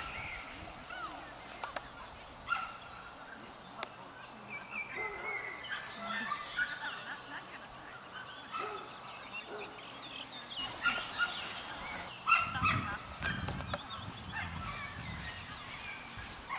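Wild birds calling and singing: many short chirps and whistles overlapping throughout. A few low thumps and a rumble come about twelve seconds in.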